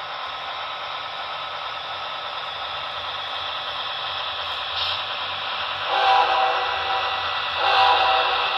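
Locomotive's Nathan K5LA five-chime air horn sounding over a steady hiss, with two louder blasts about six seconds in and near the end.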